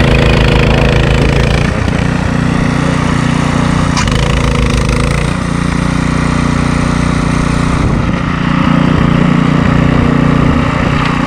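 Gas snowblower engine running steadily, its note changing a couple of times as it works through the snow.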